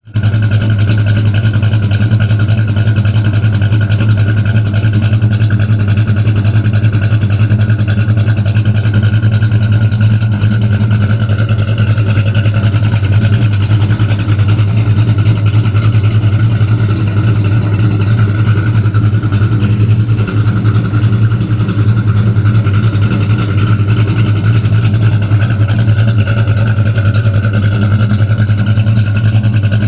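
Dodge Dart's 360 LA V8, fitted with a Whiplash camshaft and performance mufflers, running steadily at idle through its exhaust, loud and even with no revving.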